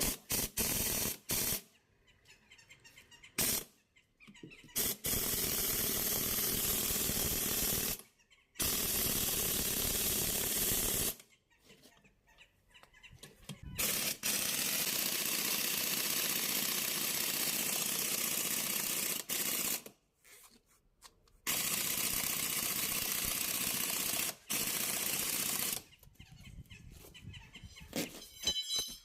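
Tractor-tyre bead-breaking tool at work: repeated bursts of steady hissing noise, each lasting a few seconds and starting and stopping abruptly, about six times.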